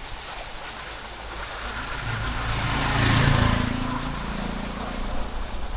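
A motor vehicle passing by on a nearby road: its engine hum grows louder, peaks about halfway through and fades away. Steady rushing water runs underneath.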